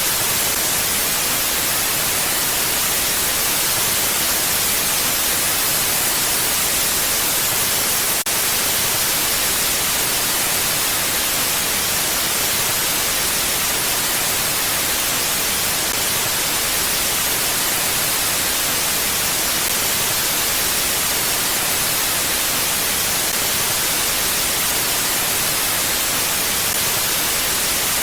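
Steady, even hiss of mountain wind, without gusts, weighted toward the high end so it sounds close to white noise. A tiny click-like glitch falls about eight seconds in.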